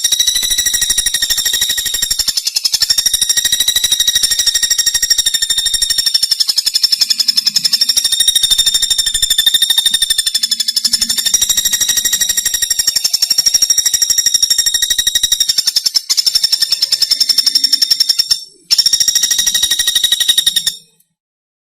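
Pelatuk bawang bird song from a masteran recording: a very rapid, high, buzzing trill held on one steady pitch, breaking off twice for a moment near the end and then stopping suddenly.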